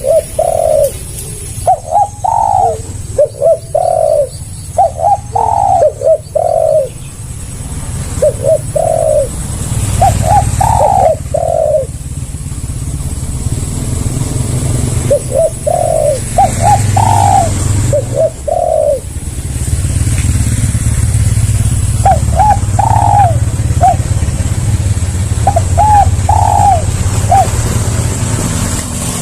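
Spotted dove (tekukur) cooing loudly: phrases of a few short rising-and-falling coo notes, repeated every couple of seconds. Under it runs a low steady rumble that grows louder about a third of the way in.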